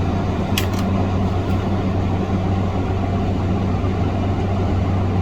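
Steady low hum of a small motor running, with two light clicks under a second in.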